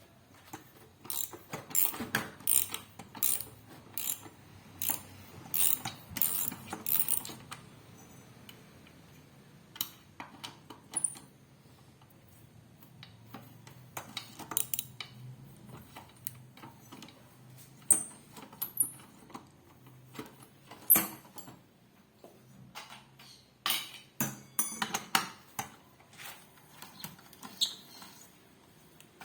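Irregular metallic clicks, knocks and ratcheting of hand work on washing-machine parts, coming in clusters, with a faint low hum underneath.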